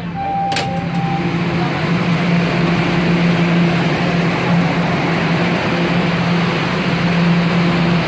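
Toronto subway train standing at a station platform: a steady, loud hum with a low tone from the train's equipment, over a wash of noise. A short higher tone and a click come in the first second.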